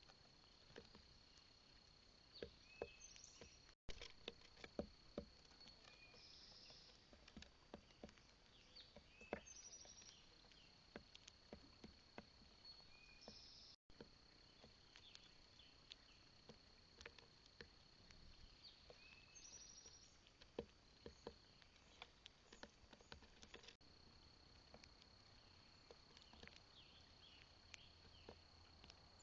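Birds at a feeder platform: irregular small taps and clicks of beaks and feet on the feeder, with short high bird chirps every few seconds over a steady high-pitched tone.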